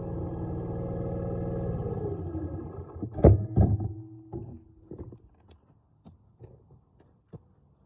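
Dirt bike engine running steadily, then shut off about two seconds in, its pitch falling as it dies away. A couple of loud knocks follow, then scattered light clicks and taps.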